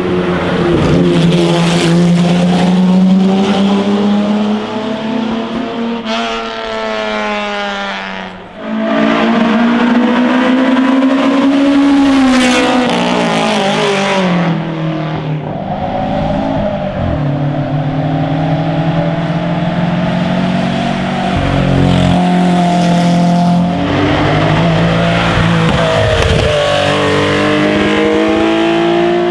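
Classic racing car engines accelerating hard and changing gear, the pitch climbing and then dropping back at each shift. About eight and a half seconds in the sound drops briefly before another engine comes in.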